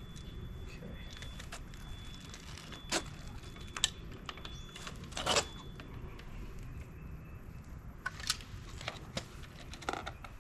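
Scattered sharp clicks and knocks, with a short scrape about five seconds in, from hand tools and metal parts being handled during wiring work on an EV wall charger, over a steady low rumble.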